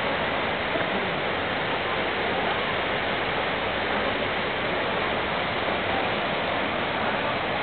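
Steady rushing of falling or flowing water, an even wash of noise with no breaks.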